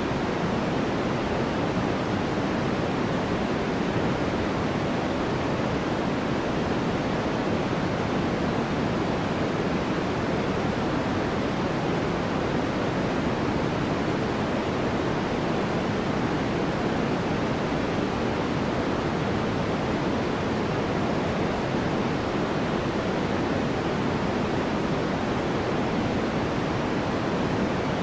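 Steady sleep white noise: a constant, even hiss with no changes, fuller in the low-middle range and softer in the highs.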